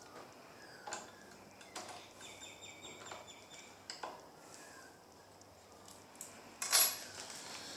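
Small light-duty steel bolts clinking against each other and the jaws of a mini vice as they are slid in: a few separate light metallic clicks, then a louder rattle of clicks near the end.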